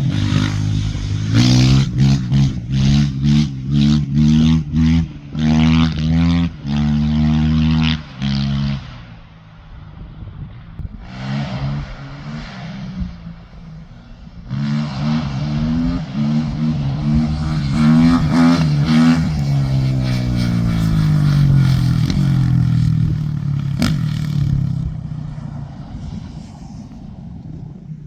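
Motorcycle engine revved hard in a quick string of short throttle blips, then revved up again and held before its pitch drops and the sound fades.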